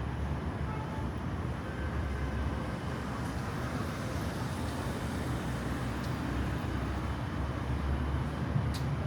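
Steady low rumble of background noise in a large public space, with a single short click near the end.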